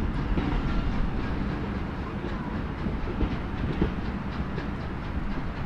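Passenger coaches of a heritage train rolling slowly along the track, a steady low rumble of wheels on rail.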